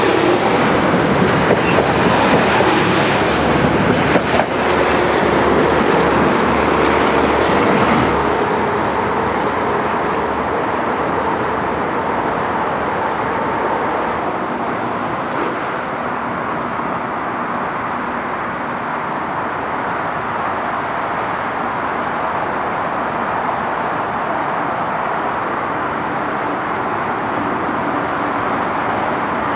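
Metro-North electric multiple-unit commuter train (M2 and M6 cars) running through the station as it departs, wheels and running gear making a steady rumble. It eases somewhat after about eight seconds, then runs on steadily.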